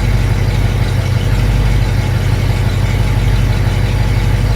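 V8 truck engine idling steadily through a Walker SoundFX universal muffler, a low, even exhaust rumble. The owner calls it just the right amount of exhaust noise.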